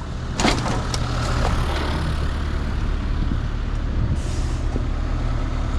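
Heavy diesel machinery engine running steadily, with a short hiss about four seconds in.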